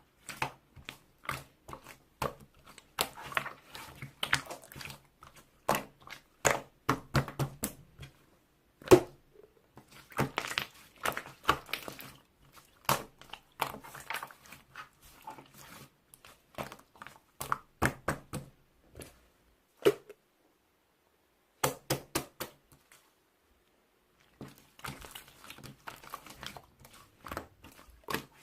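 Slime being mixed and squished by hand: a dense, irregular string of sticky clicks, pops and squelches, broken by a couple of short pauses past the middle.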